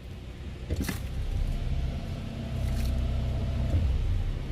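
Honda Fit engine running with a steady low rumble. A click comes about a second in, then the rumble grows a little louder. This is the car being put into Drive, where a low rattle from the CVT is expected; the mechanic blames loose damper springs in the flywheel.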